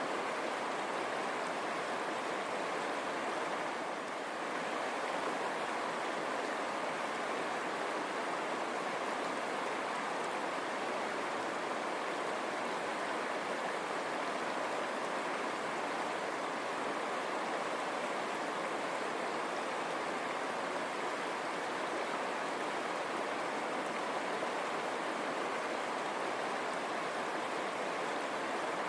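River water rushing steadily over stones, a continuous even rush.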